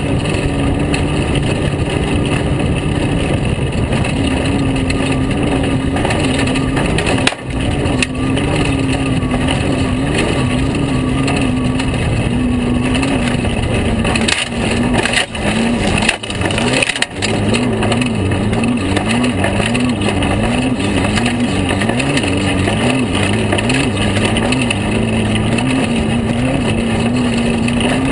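Air-cooled VW flat-four engine of a Class 5 Baja Bug race car running hard, heard on board, its pitch wavering up and down again and again as the throttle is worked over rough ground, over a steady rush of noise. The sound drops out briefly and suddenly a few times, about seven seconds in and again between fifteen and seventeen seconds.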